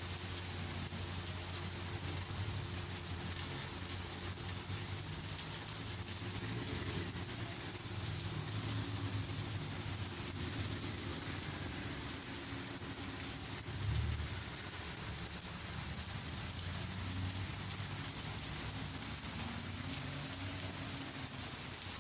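Heavy rain falling steadily, with the low drone of motor traffic underneath and a single brief low thump about fourteen seconds in.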